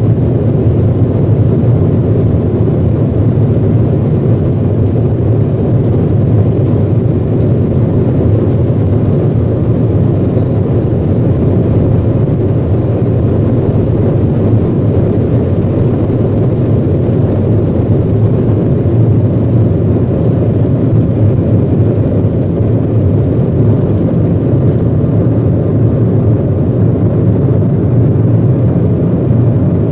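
Steady, loud rumble of an Embraer 175 regional jet as heard inside the cabin during the takeoff and climb: the engines and the rushing air make an even, unchanging noise, deepest in the low range.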